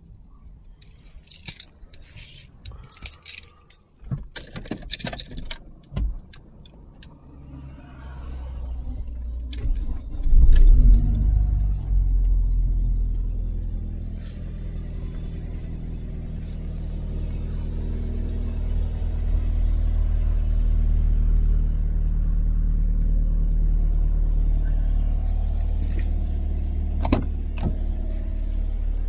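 Keys jangling and a few clicks. About ten seconds in, a BMW E46 Compact's 1.8-litre four-cylinder engine starts with a brief surge, then settles into a steady idle.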